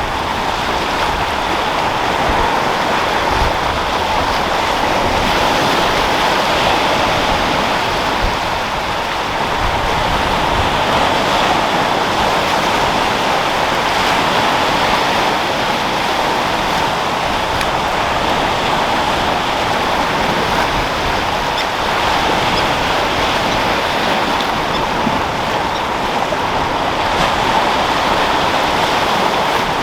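Sea waves rolling in and breaking as a continuous, steady wash of surf, with wind.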